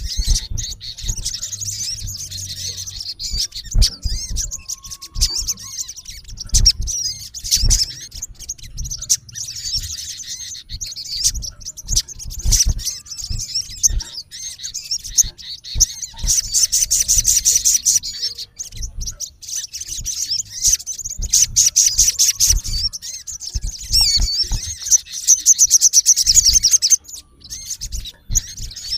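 Male olive-backed sunbird giving rapid, high-pitched chirps and trills almost without pause: a male's aggressive calling at a rival. There are frequent low thumps and clicks under the calls.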